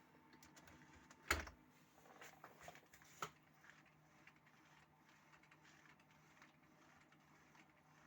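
Mostly near silence, with a sharp knock about a second in, some faint rustling clicks, and a second sharp click about three seconds in.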